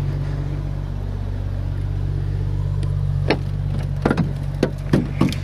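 Jeep Cherokee XJ's fuel-injected engine idling steadily just after a cold start. From about three seconds in, a handful of short sharp clicks or crunches sound over it.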